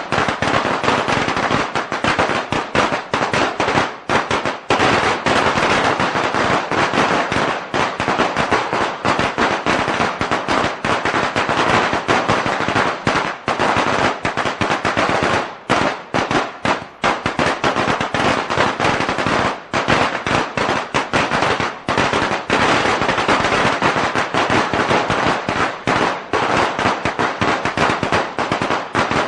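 A long string of Chinese firecrackers going off: a dense, unbroken rapid crackle of bangs, with brief dips now and then.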